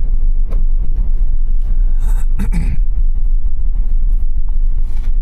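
Steady low rumble of a car driving, heard from inside the cabin, with a few brief knocks about two seconds in.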